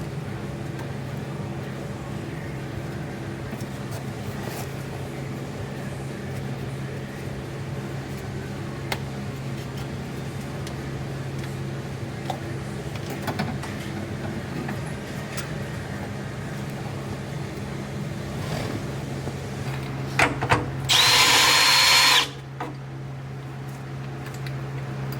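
Steady low hum with scattered clicks of tools, then a power tool such as a drill or impact driver runs in one loud burst of just over a second about 21 seconds in, with a high whine.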